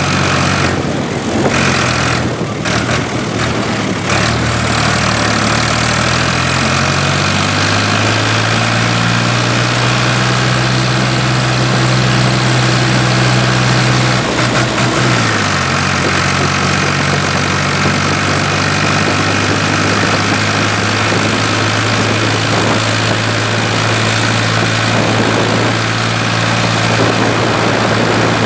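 Ford 3000 tractor's three-cylinder engine running under way, a steady mechanical drone whose pitch shifts a few seconds in and drops again about halfway through.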